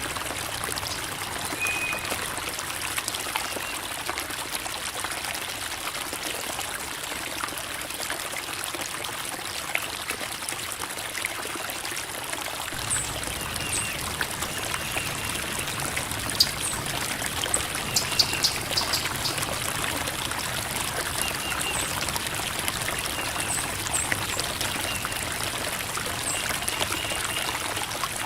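Creek water flowing and trickling over rocks, a steady babbling that grows a little fuller about halfway through, with a few small splashy ticks.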